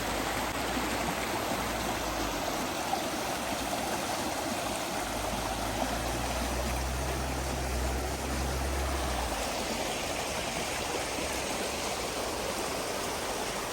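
The River Ness flowing past, a steady rush of moving water heard up close, with a low rumble joining in from about five seconds in to about nine and a half.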